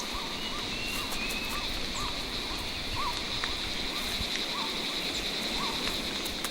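Forest ambience: a steady high-pitched insect drone, with a short rising-and-falling animal call repeated about twice a second.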